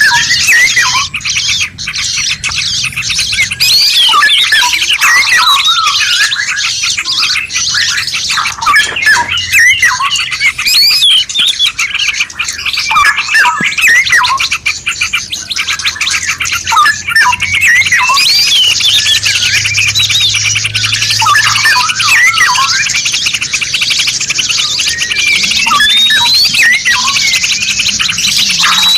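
Dense chorus of several songbirds singing at once: quick overlapping chirps, whistles and trills with no break, over a steady high hiss.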